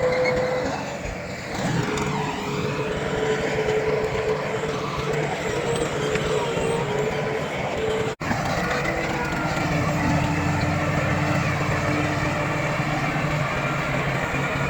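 Heavy diesel earthmoving machinery running steadily, its engine with a held whine over it; the sound cuts out for an instant about eight seconds in.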